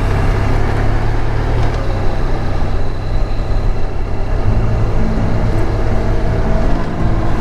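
Honda VFR1200X Crosstourer's V4 engine running while riding, with road and wind noise. The engine note shifts a little over halfway through.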